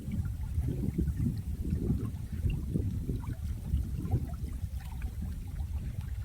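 Running water flowing steadily, a low uneven burble with small scattered splashes and drips over it.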